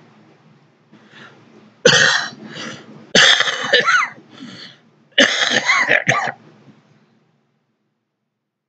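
A man coughing: three loud coughs spread over about four seconds.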